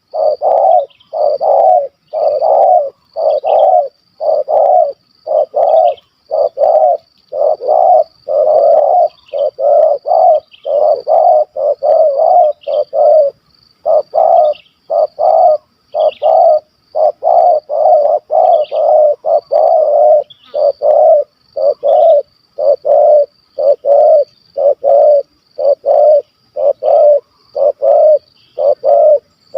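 Spotted dove (tekukur) cooing loudly and close by in a long unbroken series of short, even notes, more than one a second. A faint, quick high chirping runs above it.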